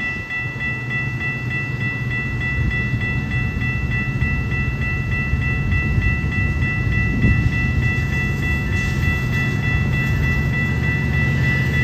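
Railroad grade-crossing bell ringing rapidly and steadily, over the low rumble of an approaching train that slowly grows louder.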